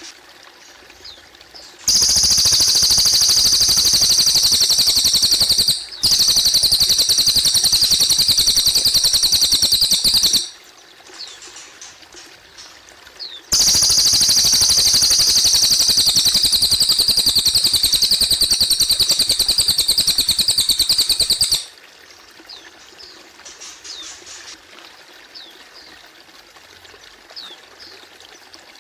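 Cililin bird singing two long, loud, very rapid high-pitched trills of several seconds each, the first with a brief break, over the faint steady trickle of running water and a few soft chirps.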